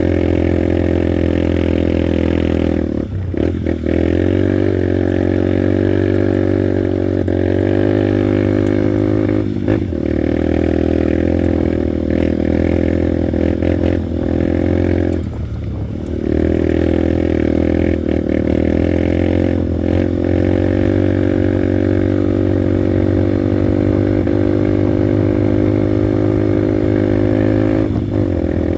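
Honda Bros 150 motorcycle's single-cylinder four-stroke engine running steadily under way, with a few brief dips in engine speed where the throttle is eased off or a gear is changed.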